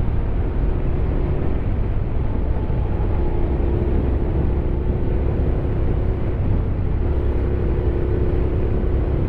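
Honda X-ADV 750's parallel-twin engine running at a steady riding speed under a heavy low rumble of wind and road, with a steady engine hum that drops out briefly near the end.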